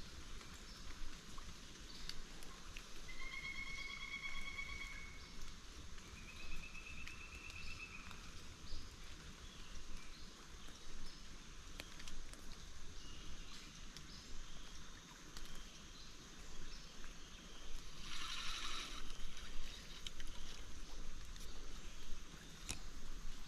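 Quiet creek-side outdoor ambience with a steady hiss, broken twice by a clear pulsed trill of about two seconds each from a small animal calling. Late in, a short rasping burst of noise.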